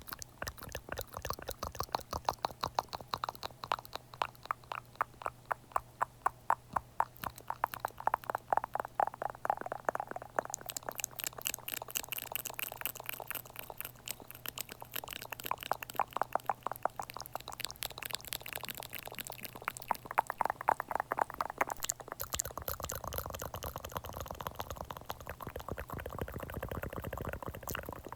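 Close-miked ASMR wet sounds: rapid sticky clicks and smacks, several a second, over a steady low hum. The sound grows fuller and lower about three quarters of the way through.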